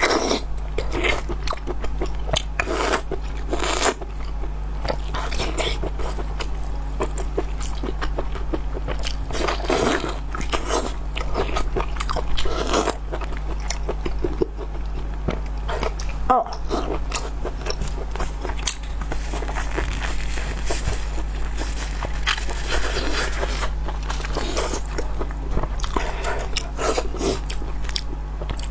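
Close-up mouth sounds of someone biting and chewing fatty pork intestine rings: many short wet smacks and clicks at an irregular pace, over a steady low hum.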